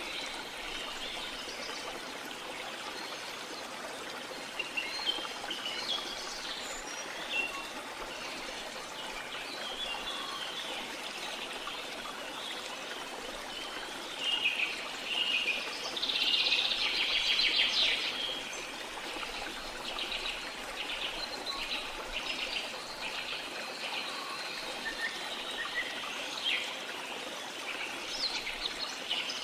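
Waterfall running steadily, with birds chirping over it throughout. About halfway through, a bird gives a loud rapid trill, then a run of short notes repeated at an even pace.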